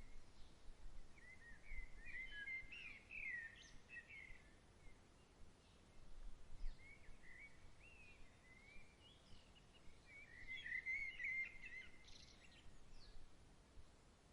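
Songbirds chirping and warbling in quick, short phrases, with two busier bouts, about two seconds in and again around ten seconds in, over a faint steady outdoor background.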